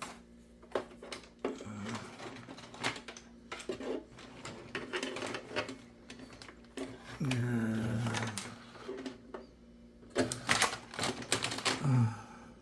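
Irregular clicks and light knocks of computer parts, cables and connectors being handled, with a short falling tone about seven seconds in and another near the end.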